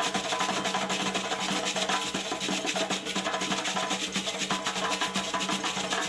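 Fast, dense traditional West African drumming with sharp wood-block-like strikes.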